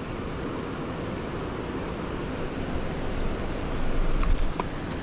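Fast-flowing river rushing steadily, with a few light clicks and a brief low bump about four seconds in.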